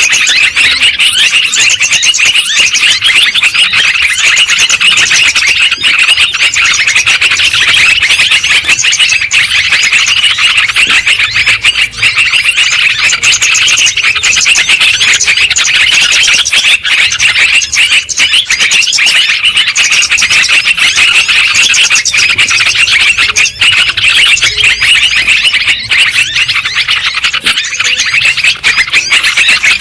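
Yellow-vented bulbuls chattering noisily, a dense, loud, unbroken flurry of overlapping calls, as played to lure wild birds.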